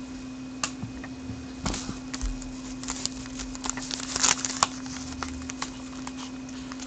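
Trading cards and a foil pack wrapper being handled: irregular light rustling and clicks, busiest a little past the middle, over a steady low electrical hum.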